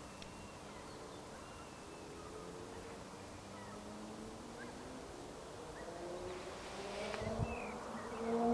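X11 electric multiple unit approaching: the humming whine of its electric traction motors rises slowly in pitch and grows louder, with a low rumble coming in near the end.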